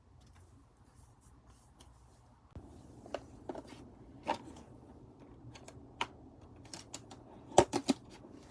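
Photocards and plastic packing sleeves being handled on a desk: scattered light taps and clicks with soft rustling, growing busier a few seconds in, and three sharper clicks in quick succession near the end.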